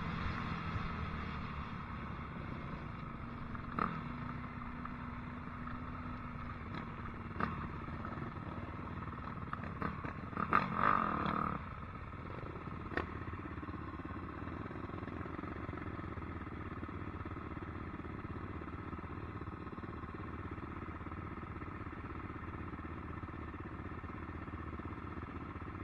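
Dirt bike running at low revs, with a steady engine drone and a few sharp knocks and clatters, the loudest cluster about ten to eleven seconds in.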